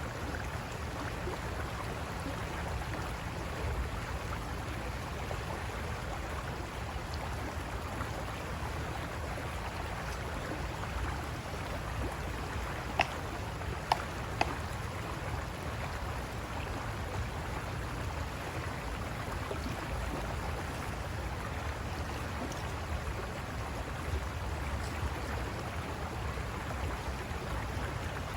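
River water rushing over rocks, a steady flowing noise with a low rumble. Three sharp clicks come close together about halfway through.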